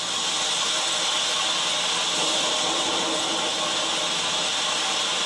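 A loud, steady hiss of noise with no rhythm or pitch.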